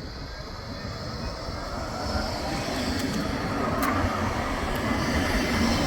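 Bombardier Flexity 2 tram running along the tramway, its rumble growing steadily louder as it comes closer.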